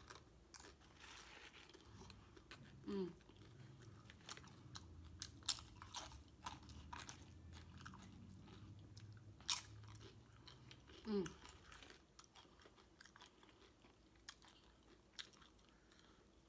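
Close-miked mouth sounds of someone chewing a quesadilla: irregular wet clicks and soft crunches, with two short hummed 'mm's of enjoyment. A faint low hum sits under the chewing in the middle.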